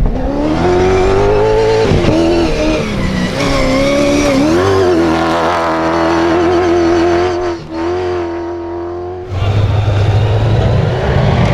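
Rally vehicle engine running hard at speed, its pitch climbing, dipping and wavering as the throttle and gears change; it drops off briefly near eight seconds and about nine seconds in gives way to a lower, rougher engine rumble.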